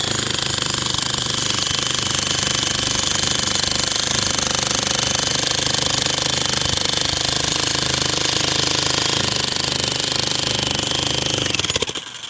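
A loud, steady, rapid mechanical rattle from a motor-driven machine or power tool, with a faint high whine, that cuts off suddenly near the end.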